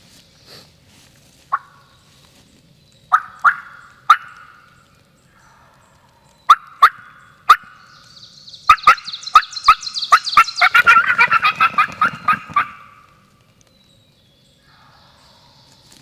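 Turkey calling: sharp single clucks and yelps, spaced about a second apart, then a rapid rattling gobble from a tom lasting a few seconds in the second half.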